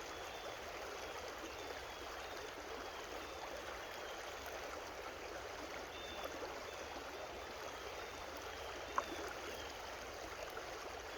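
A creek's flowing water, a steady rushing and babbling, with one brief click about nine seconds in.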